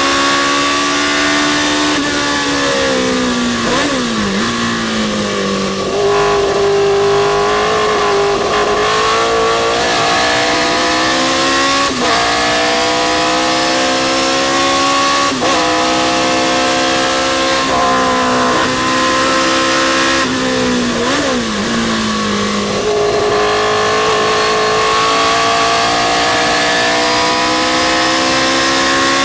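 Historic sports racing car's engine at full racing pace, its note climbing steadily through the gears with a sharp drop at each upshift. It twice falls in pitch under braking, with quick throttle blips on the downshifts, about two seconds in and again about twenty seconds in, before pulling hard again.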